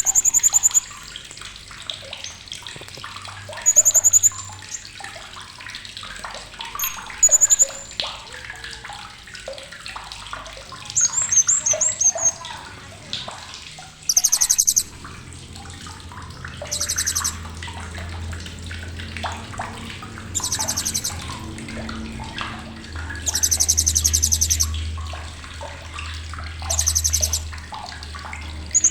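Blue-crowned hanging parrot (srindit) giving sharp, high chattering calls: about nine short buzzy bursts a few seconds apart, with one longer burst near the end. A steady hiss and a low hum lie underneath.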